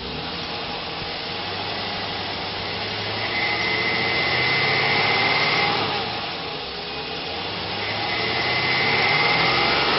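2003 Chevrolet Silverado 1500's 5.3-litre V8 running, swelling louder twice, with a thin high whine during each louder stretch.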